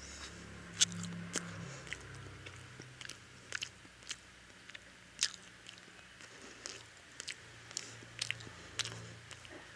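A person chewing soft egg toast soaked in chicken curry close to the microphone: irregular wet mouth smacks and clicks.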